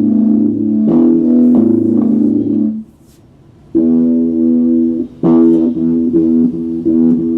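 Epiphone Les Paul Special II electric guitar strumming ringing chords. The chords stop for about a second near the middle, then it strikes a chord and strums several more in quick succession.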